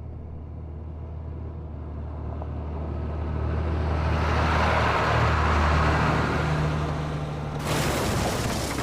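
Heavy vehicle engine running with a steady low drone while road noise builds up, then a sudden harsh noise starts about three-quarters of the way through.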